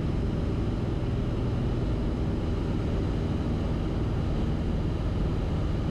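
Cessna 172RG's engine and propeller droning steadily in the cockpit, throttled back to reduced power on final approach.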